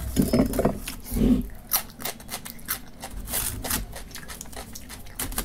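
Close-miked chewing and mouth sounds of a person eating roti with curry: a few low, full chews early on, then a run of quick wet clicks and smacks.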